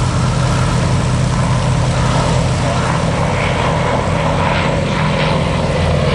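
The Lockheed Hudson's twin radial engines and propellers drone loudly and steadily in flight.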